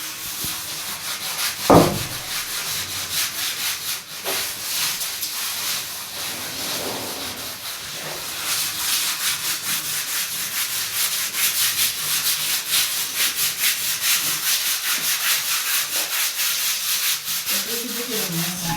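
Rapid, rhythmic scrubbing strokes on a hard surface, several strokes a second, growing steadier and denser after the first half, with a single sharp knock about two seconds in.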